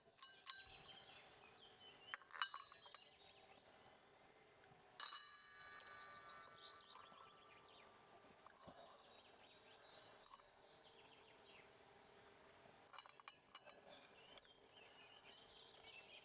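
A few faint metallic clinks against quiet outdoor background. The loudest comes about five seconds in and rings briefly, like a struck metal vessel.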